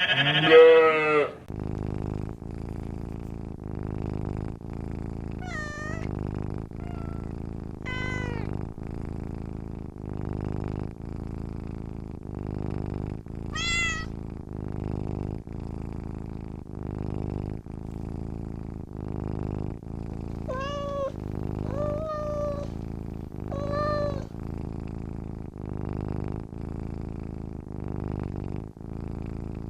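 Domestic cat purring steadily in a rhythm of about one breath a second, meowing briefly about six times over the purr. It opens with a loud bleat that runs on from the previous animal.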